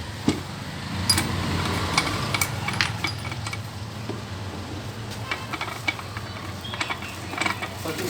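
Scattered metallic clinks and taps of hand tools on engine parts, over a low hum that fades after about three seconds.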